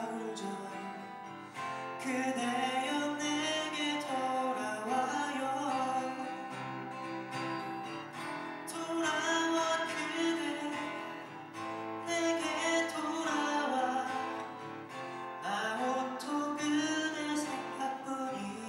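Live performance of a ballad on acoustic guitars, strummed and plucked under a melody line that rises and falls in phrases.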